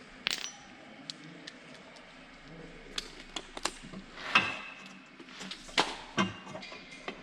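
Irregular metallic clinks and knocks of hand tools and metal fittings being handled in a bus engine bay, with louder knocks about 4 and 6 seconds in, one with a brief ring.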